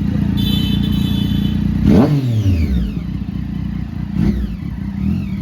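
Motorcycle engine running loudly, with a sharp swing in pitch about two seconds in and smaller falling sweeps near the end.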